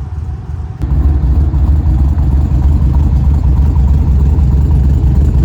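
A cammed race car's engine running; about a second in it gets suddenly louder and stays there.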